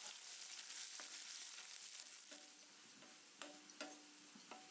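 Faint sizzling of shallots and curry leaves frying in oil in an aluminium kadai, stirred with a wooden spatula, with a few light knocks of the spatula against the pan in the second half.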